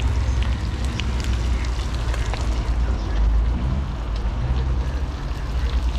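Scattered crackles and pops from outdoor cooking over a fire, with a steady low wind rumble on the microphone.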